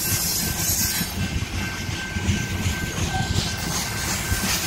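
Freight train cars rolling past at a grade crossing: a steady, loud rumble and rattle of steel wheels on the rails.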